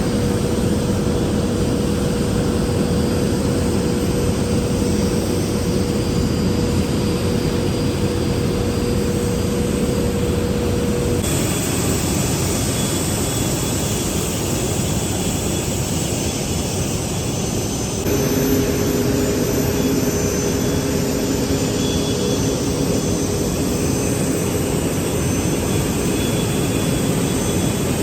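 Airbus A380's four jet engines running with a loud, steady roar and a faint hum over it. The sound changes abruptly twice, about 11 and 18 seconds in.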